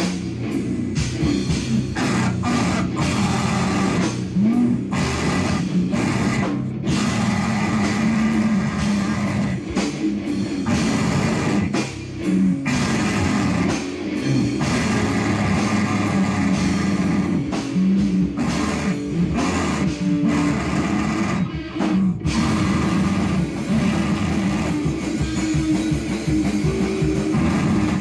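Live band playing loud, distorted noise rock: electric guitar and drums in a dense, continuous wall of sound, with short drops in the treble here and there.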